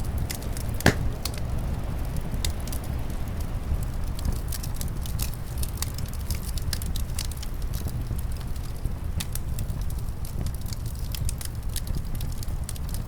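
Wood fire crackling in a fireplace, with many small sharp pops and one louder pop about a second in, over a steady low rumble of wind.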